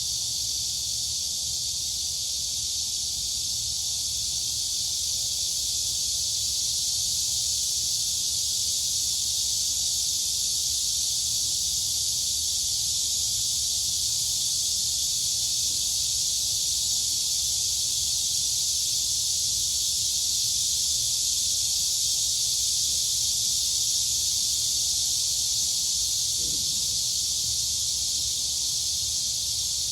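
Dense chorus of crickets and cicadas: a continuous, high, shrill buzz that holds steady throughout, over a faint low rumble.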